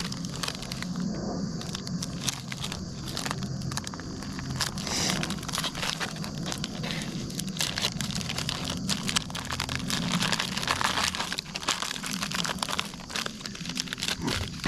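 Plastic MRE ration packets and wrappers crinkling and rustling in irregular crackles as they are handled and pulled out of the pouch.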